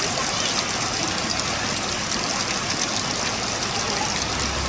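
Heavy rain pouring down, a steady hiss of falling water.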